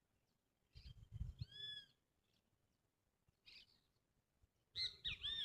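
A bird calling outdoors: short arched, rising-and-falling calls, once about a second and a half in and again in a quick cluster near the end, with low rumbles of wind or handling noise on the microphone alongside.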